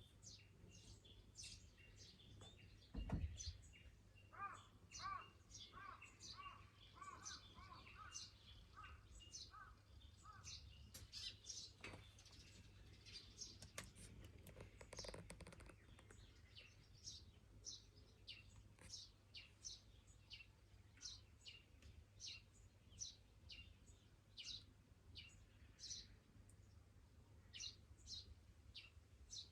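Faint birdsong: many short, high, falling chirps throughout, with a run of about a dozen evenly repeated lower notes between about 4 and 10 seconds. There is a soft thump about 3 seconds in.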